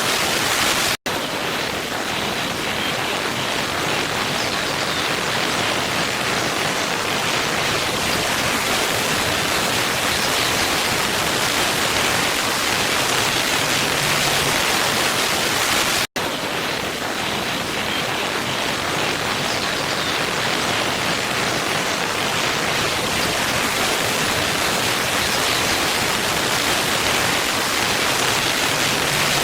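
Steady rush of a waterfall, an even roar of falling water, that cuts out for an instant twice: about a second in and again about halfway through, where the recording loops.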